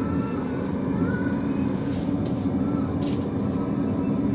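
Coal forge with its air blower running: a steady low roar. A couple of brief hisses sound about two and three seconds in.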